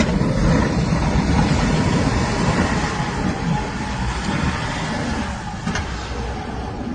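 A heavy vehicle running on a snowy street, a steady rumble that slowly fades.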